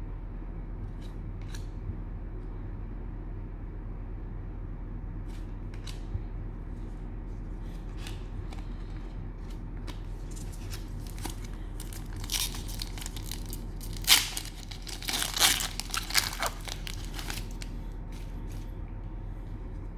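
A trading-card pack's cellophane wrapper being torn open and crinkled. The crinkling starts about halfway through and is loudest a little after two-thirds of the way in. Scattered light clicks of card handling come before it, over a steady low hum.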